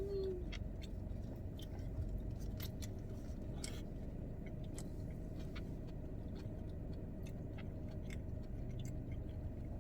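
A person chewing food, with faint scattered mouth clicks over a steady low hum. A short closed-mouth "mm" right at the start.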